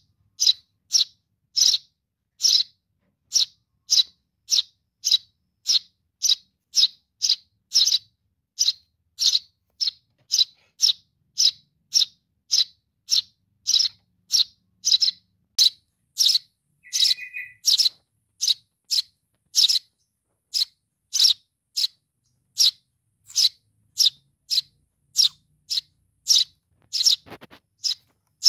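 A Eurasian tree sparrow chick calling for its parent: short, even, high chirps repeated about twice a second without a break. About two-thirds of the way through comes one brief, lower call.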